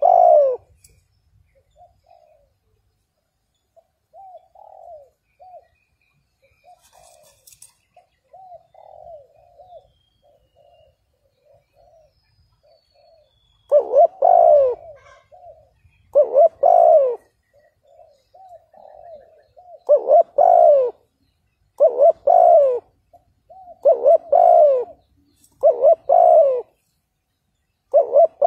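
Spotted dove cooing. It gives soft, quick coos through the first half, then loud coos about every two seconds from halfway on.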